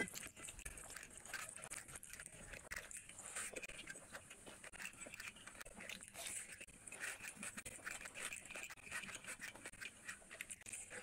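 A person chewing a mouthful of chicken curry and rice eaten by hand, close to the microphone, with many small irregular wet mouth clicks.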